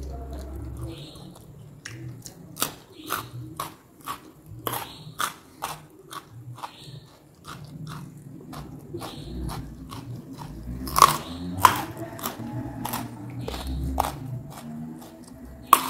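A person chewing crunchy food with the mouth near the microphone: a steady run of crisp crunches, about two a second, with a couple of louder ones in the second half.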